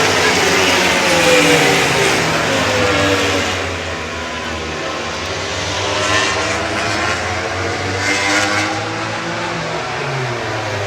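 Several racing motorcycles running at high revs on the circuit, their engine notes overlapping and sweeping up and down in pitch as they pass.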